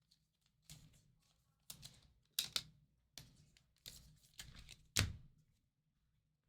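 Trading cards being handled and flipped through: a series of about seven soft rustles and clicks, with a sharper tap of a card on a hard surface near the end.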